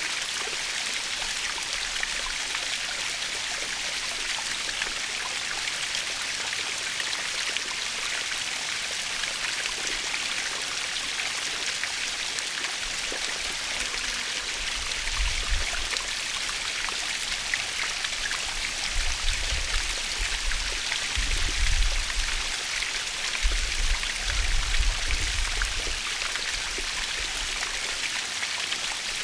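Waterfall splashing steadily with an even, hissing rush. About halfway through, a low rumble comes and goes in uneven bursts for about ten seconds.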